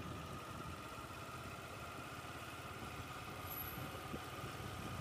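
Motorcycle engine running steadily at low riding speed, heard quietly from the rider's own bike, with a thin steady whine over it.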